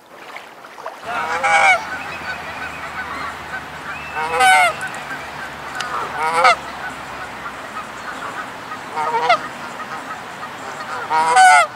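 Canada geese honking: five loud honks spaced about two to three seconds apart.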